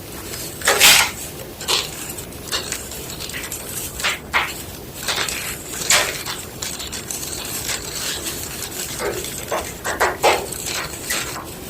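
White gym chalk crunching in a series of irregular crisp crunches, a loud one about a second in and others scattered throughout.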